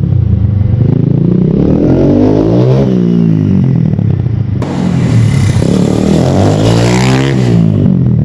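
Supermoto dirt bike engine being ridden, revving up and backing off in turn: its pitch climbs and drops about three times.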